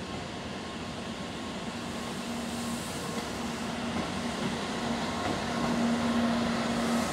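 N700A Shinkansen train pulling away from the platform and gathering speed. The running noise and a steady electric hum grow louder as it accelerates.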